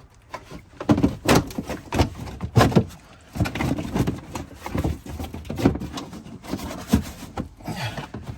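Plastic wheel-arch liner being pulled and worked loose from the wheel arch, giving a run of irregular knocks, clatters and scrapes; it is still caught at the side.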